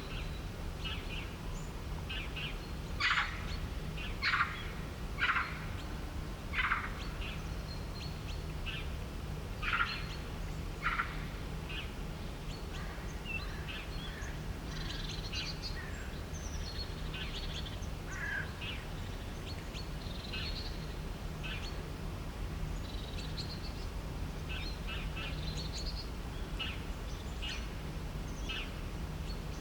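Birds chirping and calling: many short calls throughout, with a few louder calls in the first third, over a steady low rumble.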